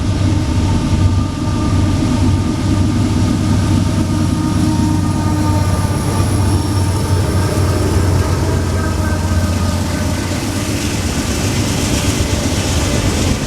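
Freight train rolling past at close range: a steady loud low rumble with several faint, steady whining tones above it.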